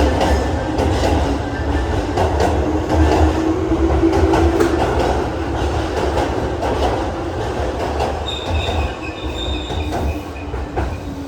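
Keihan 2200 series electric train pulling out of the platform: its traction motors whine with a tone rising in pitch over the first few seconds, over a low rumble and a regular clickety-clack of wheels over rail joints. A high wheel squeal comes in about eight seconds in, and the sound eases as the train draws away.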